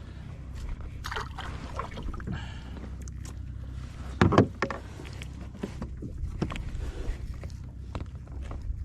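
Water sloshing and splashing around a fishing kayak, with scattered knocks and a low steady rumble underneath; a louder splash or knock comes about four seconds in.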